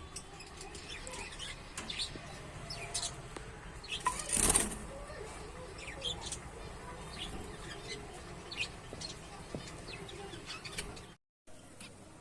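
Budgerigars chirping in many short, high calls, with a brief loud flutter of wings about four and a half seconds in.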